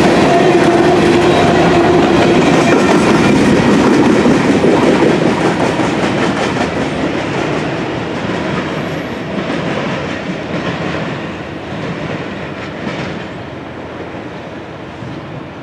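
Covered grain hopper cars of a freight train rolling past on the rails, their steel wheels clattering along the track. From about five seconds in the sound steadily fades as the end of the train moves away.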